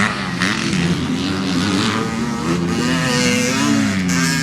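Dirt bike engine revving, its pitch rising and falling repeatedly.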